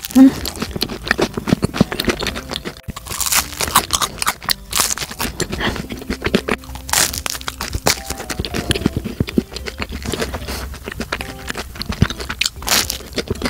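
Biting into and chewing a salt bread roll filled with pistachio cream: a crunch through the crisp crust right at the start, then continuous moist chewing with sharper crunches every few seconds.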